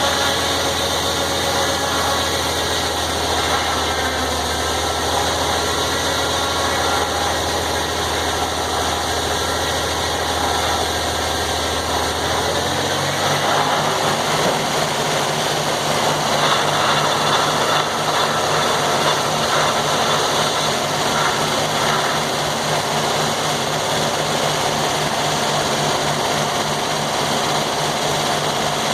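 Sawmill engine running steadily. About halfway through, its low hum steps up to a higher pitch and holds there.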